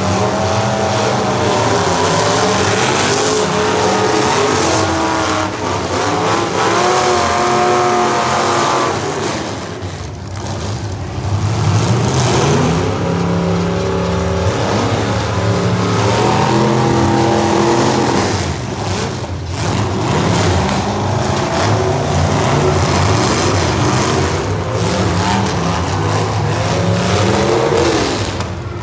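Several demolition derby cars' engines running at high throttle together, their notes rising and falling as they rev.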